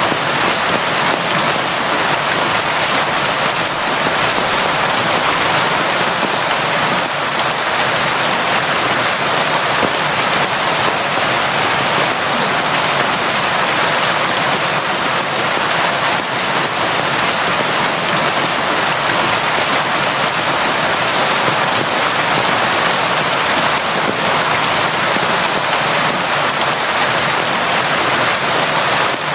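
Steady, heavy rain: a constant even hiss of falling rain with no letup.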